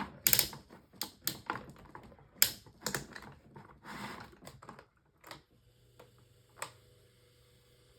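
Irregular plastic clicks and knocks from a 12-inch Climate Keeper oscillating table fan being handled and its stiff tilt joint worked, for about five seconds. Then a faint, steady motor hum starts, from a fan motor that is still gummed up, with one more click near the end.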